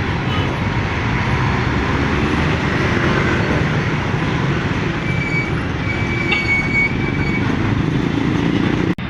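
Heavy road traffic up close: truck and vehicle engines running and passing in a steady, dense rumble. A thin high tone holds for about two seconds midway.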